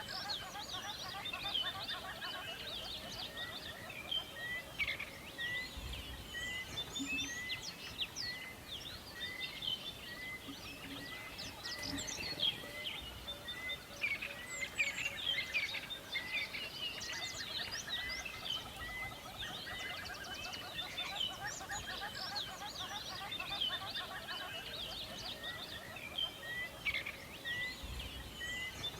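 Forest bird chorus: many songbirds chirping and singing over one another. One bird repeats a short note about once a second all through.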